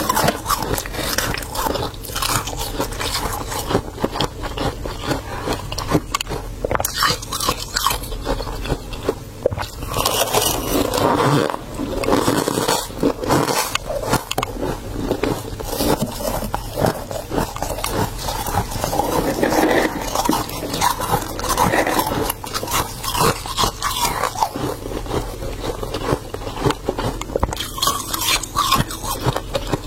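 Frost from a mini fridge's freezer being scraped, bitten and chewed: a continuous run of crisp crunches and scrapes.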